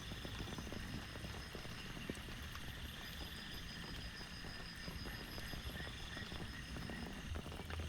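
Steady heavy rain: a dense patter of drops striking close by. Through it runs a faint, high, pulsing trill that fades out and back in.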